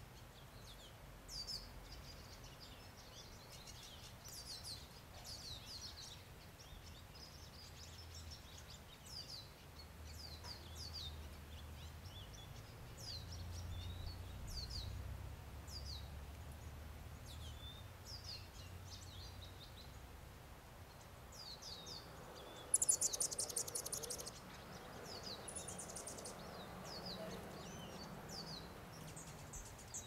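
Small birds giving short, high, falling chirps throughout, with a louder rapid chattering burst lasting about a second and a half some 23 seconds in. A faint low rumble runs underneath.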